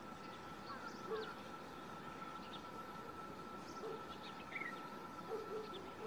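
Faint outdoor ambience with a few short, scattered bird calls over a steady high-pitched tone.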